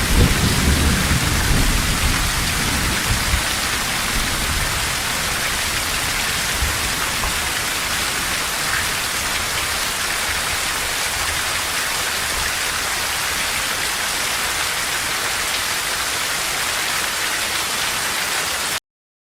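Heavy rain falling steadily as an even hiss, with a low rumble of thunder dying away over the first few seconds. The rain cuts off abruptly near the end.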